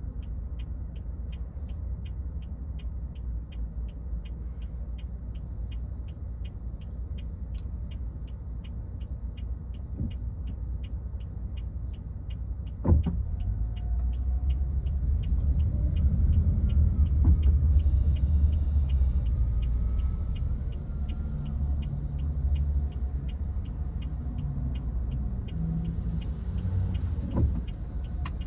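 A car's engine and road rumble heard from inside the car, with a steady fast ticking at about two to three ticks a second throughout. A sharp knock comes about halfway through, after which the rumble grows louder.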